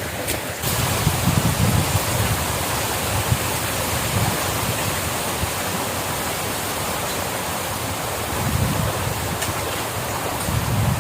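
Steady rushing of a river flowing, with wind now and then buffeting the microphone in low rumbling gusts.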